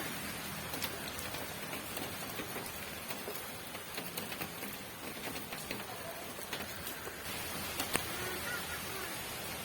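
Steady rainfall, an even hiss with individual drops ticking on a surface, and one sharper drop hit about eight seconds in.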